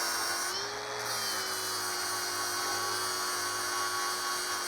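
Angle grinder running and grinding down a fresh weld on steel, a steady high whine over a hiss; its pitch sags briefly about a second in, then holds.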